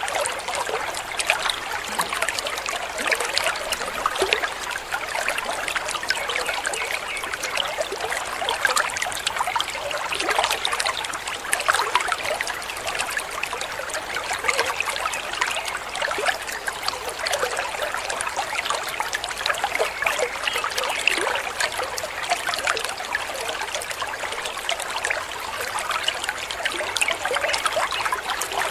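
Waterfall: falling water trickling and splashing, a steady, even rush of many small splashes.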